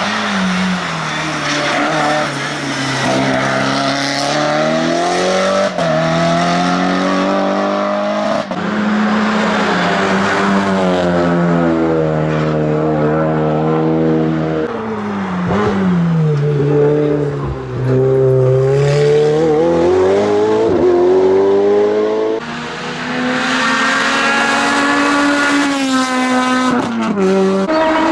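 Hillclimb race car engine at full effort, its pitch climbing and dropping again and again as it accelerates through the gears and slows for bends, with a long steady high-revving stretch in the middle.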